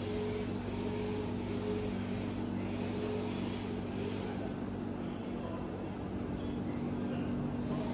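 Steady low mechanical hum with a few faint higher tones coming and going.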